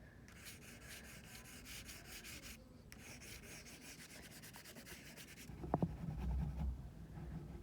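Watercolor crayon scribbling on paper in quick back-and-forth strokes, with a brief pause partway through; the scribbling stops about five and a half seconds in, followed by a light knock and low handling thumps.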